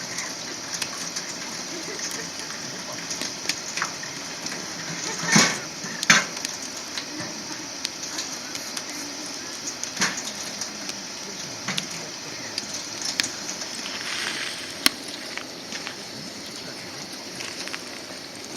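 Wood fire crackling, with irregular small pops and two louder snaps about five and six seconds in.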